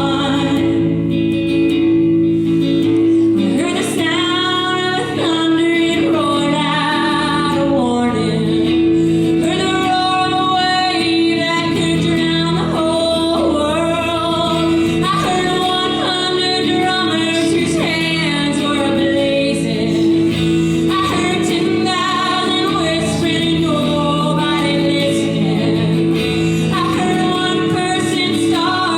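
A woman singing a folk ballad over guitar accompaniment, her sung melody moving over steady held low notes.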